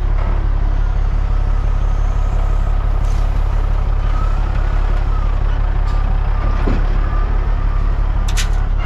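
Dump truck's diesel engine running steadily as the truck drives, a constant low drone. A short sharp click comes about eight seconds in.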